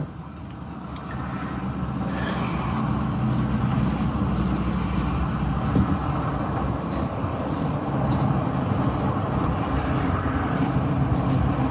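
Steady motor-vehicle engine and road noise with a low hum, swelling over the first two seconds and then holding level.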